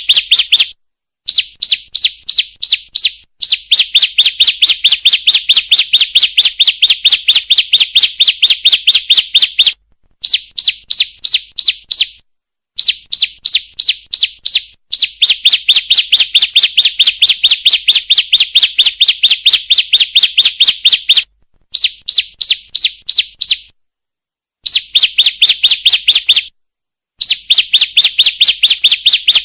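Female bar-winged prinia (ciblek) calling: rapid strings of sharp, high chirps, about five a second, in runs of a few seconds broken by short pauses. It is a lure call meant to draw in males.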